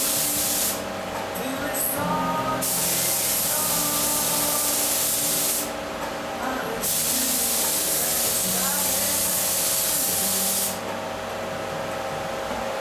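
Pneumatic spray gun spraying UV lacquer onto an engine block: a loud hiss in three passes. It breaks off briefly about a second in and again around six seconds, then stops near eleven seconds, leaving a steady low hum.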